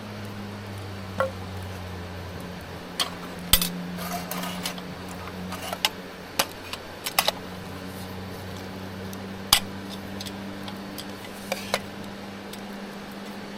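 Metal cookware and utensils clinking and knocking, a dozen or so sharp separate hits spread over the stretch, over a steady low hum.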